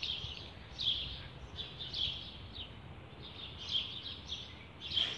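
Birds chirping: short high chirps repeating every half second to a second, over a faint low background hum.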